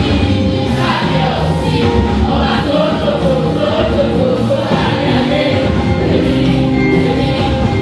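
A choir singing a gospel song with musical accompaniment.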